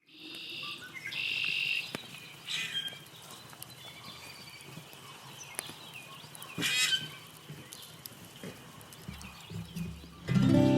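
Birds calling in short, high pitched bursts against a quiet background with scattered faint clicks. Acoustic guitar chords begin near the end.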